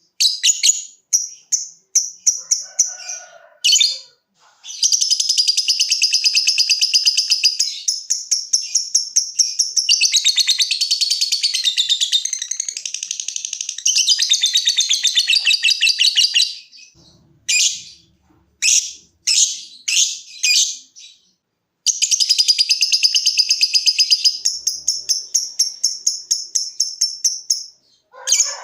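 Lovebird singing its 'ngekek' song: long runs of rapid, repeated shrill chattering notes. The first run lasts about twelve seconds and the second about six, with short separate chirps before and between them.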